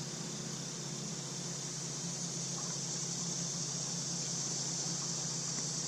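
Steady outdoor ambience: an even, high-pitched insect drone over a low, steady hum, with nothing sudden.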